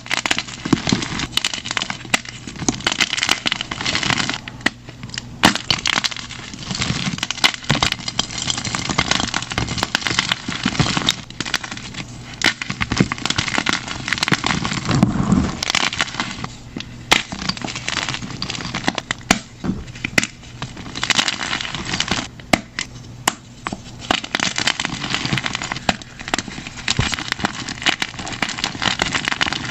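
Blocks of plain gym chalk being crushed by hand, a steady run of crunching and crackling with many sharp snaps as the chalk breaks and crumbles.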